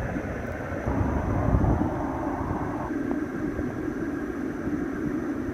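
BMW 428i's turbocharged four-cylinder idling, heard from inside the cabin as a steady low rumble that swells briefly about a second in, with a faint high-pitched whine throughout.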